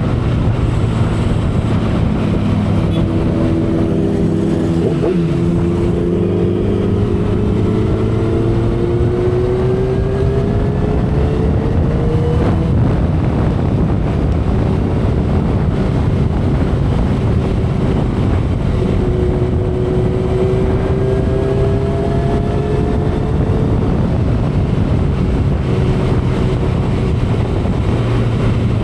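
2012 Kawasaki Ninja ZX-10R's inline-four engine running steadily at expressway speed, with wind and road noise. Twice, a higher tone climbs slowly over several seconds.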